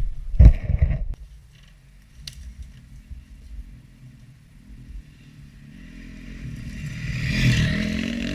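A short, loud knock about half a second in. Then, from about six seconds in, a dirt bike engine builds up and revs, loudest about seven and a half seconds in, then eases off.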